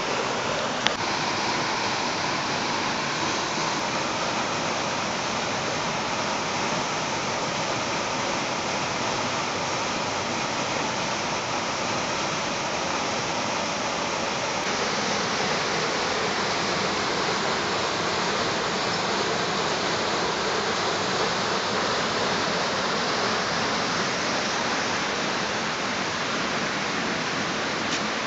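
Small waterfall rushing steadily: an even wash of falling water, its tone shifting slightly about halfway through. A brief click about a second in.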